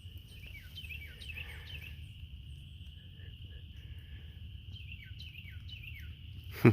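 A small songbird singing two phrases of quick, falling chirps, about a second in and again around five seconds in, over a steady high-pitched tone and a low outdoor rumble. A sharp knock comes right at the end.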